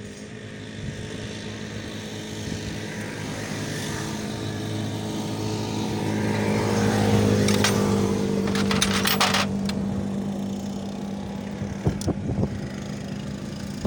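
A vehicle engine running with a steady hum, swelling to a peak about seven seconds in and then fading. A short burst of sharp metallic clicking comes around nine seconds in, and a couple of clinks near twelve seconds.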